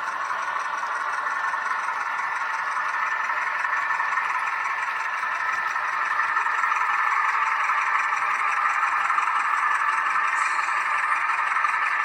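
H0-scale model train of a Renfe Alco 313 diesel locomotive running along the track: a steady whirring of the model's drive and wheels, growing a little louder about halfway through.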